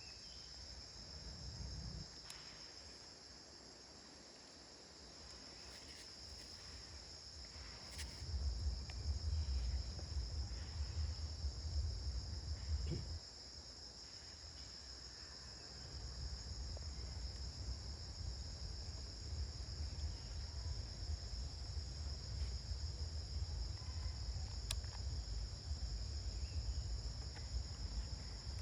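Steady high-pitched chirring of crickets or similar insects, unbroken throughout. A low rumbling noise comes in about a third of the way through and stays.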